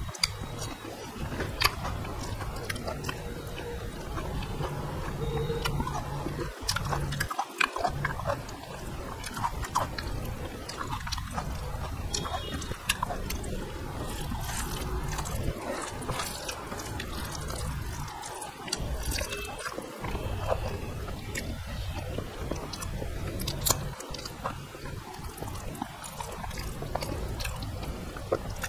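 Close-miked chewing of rice and vegetable curry eaten by hand, with many small wet clicks from the mouth and fingers over a low steady hum.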